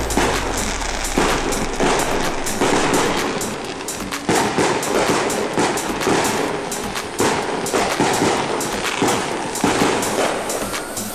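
Backyard fireworks going off: a dense, unbroken run of rapid crackles and pops.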